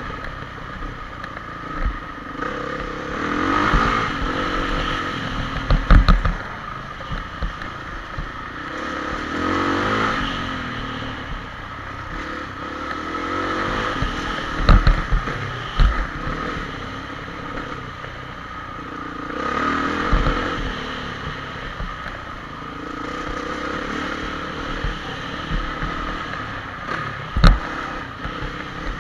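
Honda CRF450 motocross bike's single-cylinder four-stroke engine heard from an onboard camera, revving up and easing off in waves every few seconds. Sharp knocks and clatter from the bike over the rough dirt, the loudest about six, fifteen and twenty-seven seconds in.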